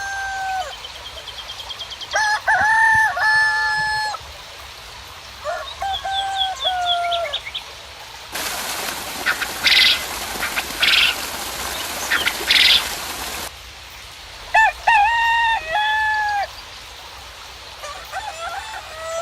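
Roosters crowing again and again, long level calls overlapping one another, with small birds chirping high above. From about eight to thirteen seconds a loud hiss like rain cuts in and stops abruptly, with short sharp calls inside it.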